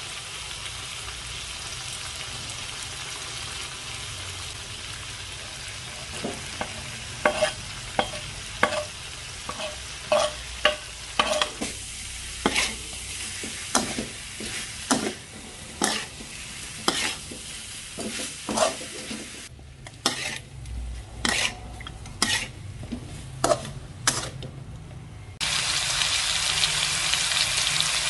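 Pork sizzling in a hot wok, with a metal spatula scraping and clanking against the pan as the meat and ginger are stir-fried. The clanks come roughly once or twice a second through the middle stretch. Near the end it switches suddenly to a louder, steady sizzle of the dish bubbling in its sauce.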